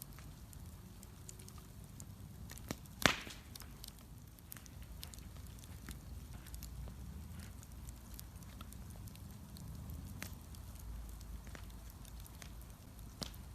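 Wood bonfire crackling, with scattered sharp snaps and one loud pop about three seconds in, over a low steady rumble.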